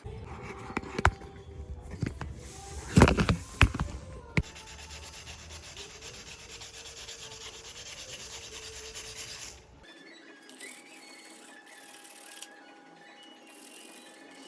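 Glass bottle being scored with a bottle cutter: a few knocks and clicks as the bottle is handled, then a steady rasping scratch of the cutting wheel on the glass, which stops about ten seconds in. The score line is cut but the glass does not break.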